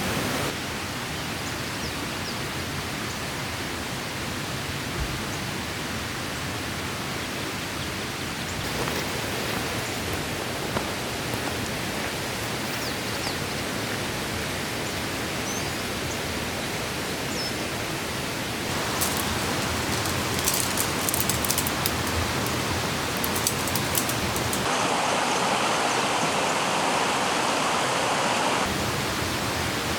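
Steady rush of a forest mountain stream flowing, mixed with falling rain. The character of the rush shifts abruptly a few times, with scattered light ticks about two-thirds of the way through and a brighter, fuller rush near the end.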